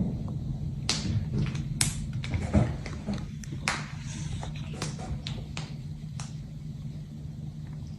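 A dozen or so irregular sharp taps and clicks over a steady low hum, thinning out after about six seconds.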